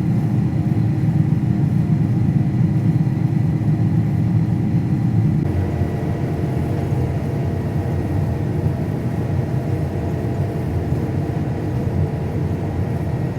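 Heavy vehicle's engine droning steadily, heard from inside the moving cab, with a faint steady whine above the rumble. The low rumble shifts slightly about five and a half seconds in.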